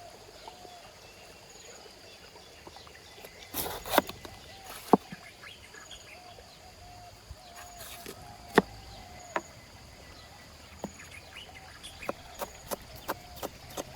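Knife chopping on a cutting board: a few separate sharp knocks, then near the end a steady run of about three chops a second. Faint birds call in the outdoor background.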